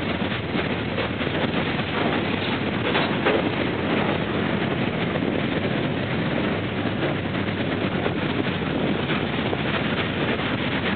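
Freight train of mostly empty steel gondola cars rolling past, a steady noise of wheels on the rails.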